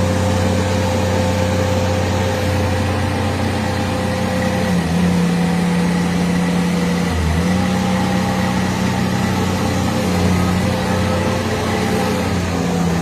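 Mini skid steer loader engine running steadily, its pitch dipping briefly twice, about five and seven seconds in.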